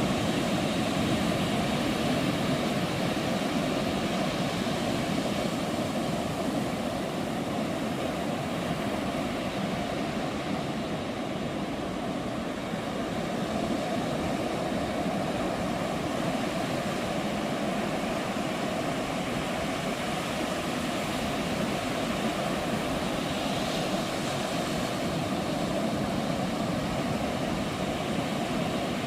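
Ocean surf washing onto a beach: a steady, continuous rushing noise with no single wave standing out.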